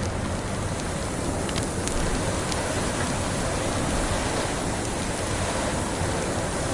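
Steady rushing noise of wind in a snowstorm, with a few faint snaps of a crackling wood fire in the first half.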